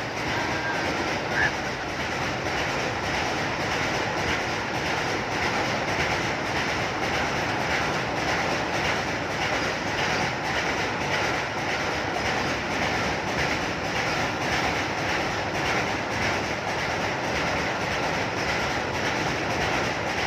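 Indian Railways train running over a rail bridge, its wheels clattering in a steady rhythm on the track.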